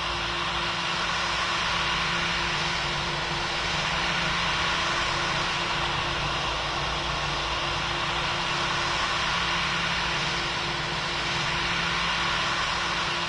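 Boeing 777 jet engines and airflow heard from inside the passenger cabin: a steady wash of noise with a constant low hum.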